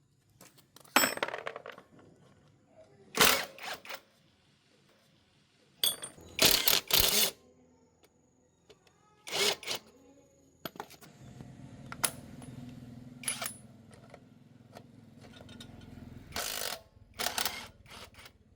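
Intermittent sharp clinks and knocks of metal engine parts and hand tools being handled, with a low steady hum joining about two-thirds of the way through.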